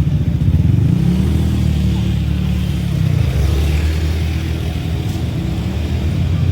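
An engine running, its low pitch drifting up and down.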